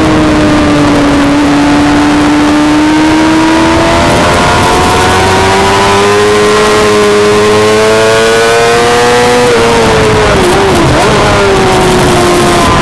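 Suzuki GSX-R600 inline-four race bike engine pulling hard on track over a constant rush of wind and road noise. Its pitch sags, then climbs steadily for several seconds, drops sharply about two-thirds of the way through as the revs come off, wavers, and falls again near the end.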